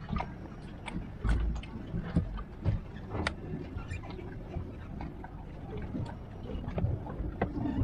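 Boat's hydraulic steering helm being turned to test it, giving scattered irregular clicks and knocks over a steady low rumble.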